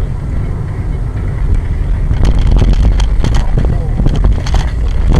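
A car driving, heard through a dashcam microphone: a heavy, steady road and engine rumble with many short knocks and rattles, growing louder about two seconds in.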